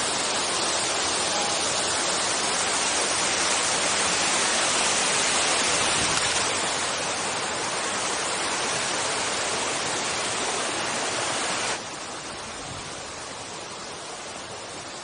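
River water rushing steadily just upstream of a waterfall. About three-quarters of the way through it drops suddenly to a quieter rush.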